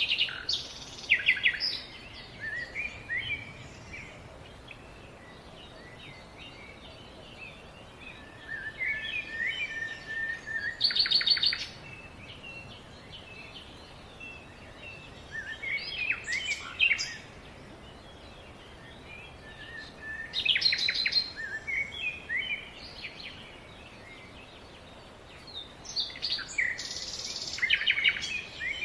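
A songbird singing, repeating a phrase of chirps that ends in a loud rapid trill, about every five to six seconds, with a steady background hiss between songs.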